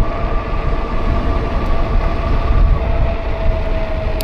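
Windhorse electric bike's motor running with a steady whine, its pitch sagging slightly near the end, over heavy wind rumble on the microphone from riding.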